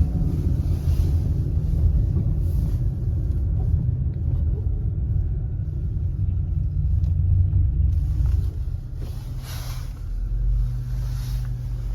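Motor vehicle engine and road rumble, loud and low. It eases off about eight seconds in, and a steady low engine hum follows near the end.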